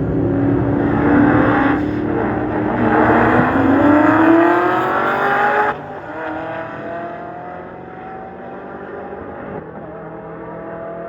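Car engine accelerating hard, its pitch climbing steadily. About six seconds in the sound drops abruptly in level, and the engine goes on climbing in pitch more quietly as the car pulls away.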